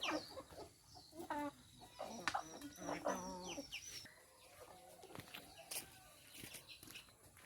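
A flock of chickens clucking, with high, falling peeping calls mixed in. The calls are busiest in the first half and thin out to scattered light ticks near the end.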